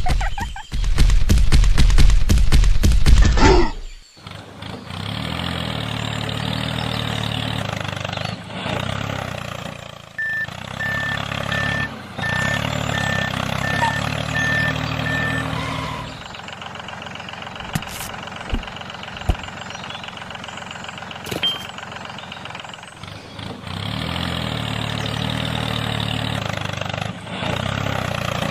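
Tractor engine running steadily, its hum shifting now and then, after a loud burst of rapid knocks in the first few seconds. A short run of evenly spaced beeps sounds for several seconds in the middle.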